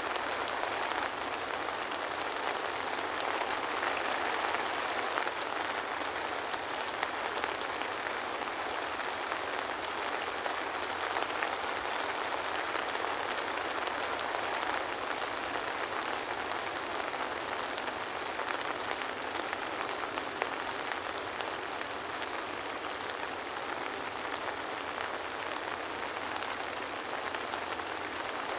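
Steady soft rain falling on a surface, a dense even patter of many small drops without thunder.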